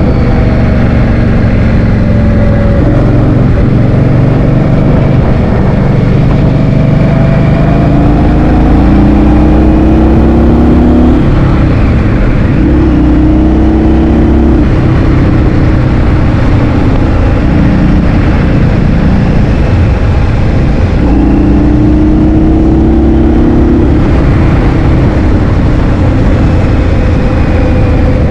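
Heavy wind buffeting the microphone during a ride, over a vehicle engine whose pitch rises and falls as it speeds up and slows down several times.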